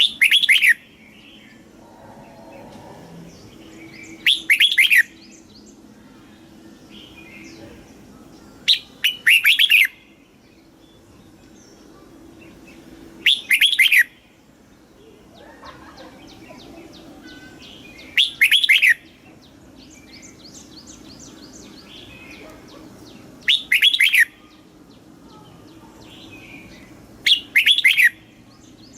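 Red-whiskered bulbul song: seven short, loud phrases of quickly falling notes, about one every four to five seconds. Fainter chirps and trills fill the gaps.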